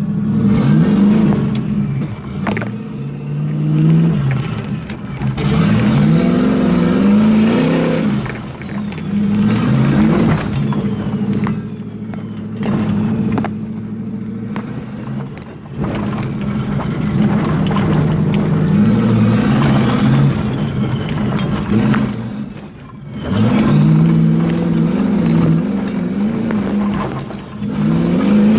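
Turbocharged 454 big-block Chevy V8 accelerating hard under load, its note climbing in pitch and dropping back several times as it pulls through the gears, with brief lifts in between. A faint high whistle rises along with the engine on several of the pulls.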